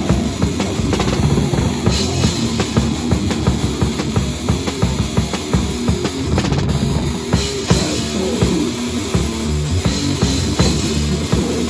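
Heavy metal band playing live and loud, with fast, dense drumming on a full kit with bass drum under distorted guitar and bass.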